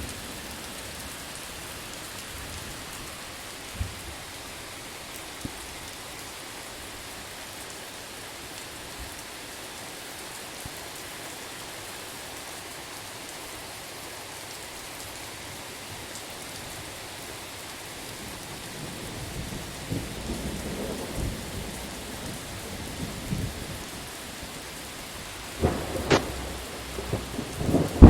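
Steady rain falling, with thunder rumbling in during the last third and a sharp thunderclap near the end.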